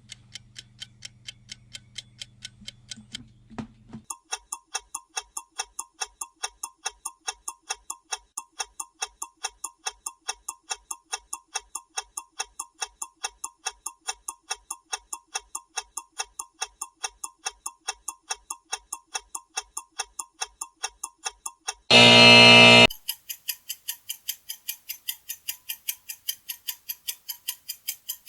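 Clock ticking recordings one after another. First a ticking over a low hum, then from about four seconds in a brighter, louder ticking at roughly three ticks a second. About two-thirds of the way through, an alarm buzzer sounds loudly for about a second, and after it a different clock ticks on.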